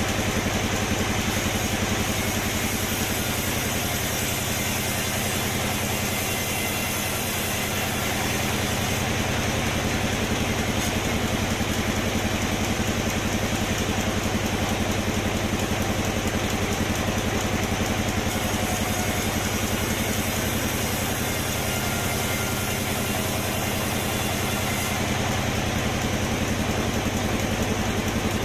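Sawmill machinery running steadily: a constant engine-like drone with a rapid, even pulse, with no break or sudden event.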